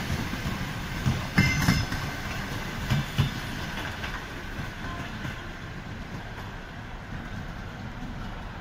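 Suburban electric train passing, its wheels clacking over rail joints in quick groups during the first three seconds or so, then a low rumble that fades as the train moves off.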